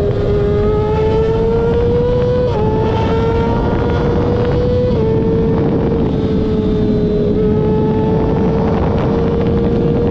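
A vehicle engine running under load and accelerating, its pitch climbing slowly and then dropping at each gear change, twice within the first five seconds. Low road and wind rumble runs underneath.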